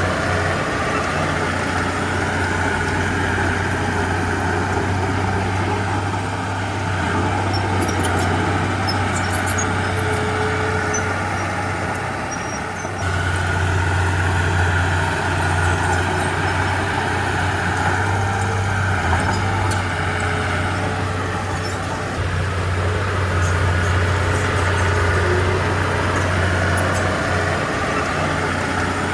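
Komatsu D31P bulldozer's diesel engine running steadily, easing off briefly and picking up again three times as the machine works.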